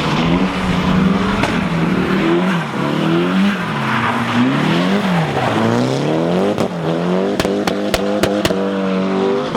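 Drift car engine revving up and down over and over as the car slides, its pitch rising and falling several times, over a steady hiss of tyres on a wet track. Near the end comes a quick run of about five sharp pops.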